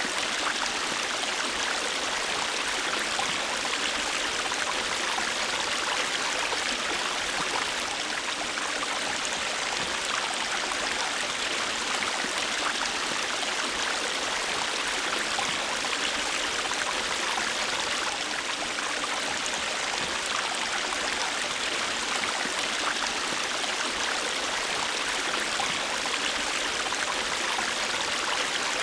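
River water flowing and babbling over stones, a steady rushing with small splashes and no change.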